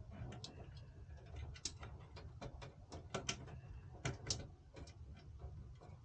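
Irregular light clicks and ticks, a dozen or so at uneven spacing, as small computer-cooler parts are handled, over a low steady hum.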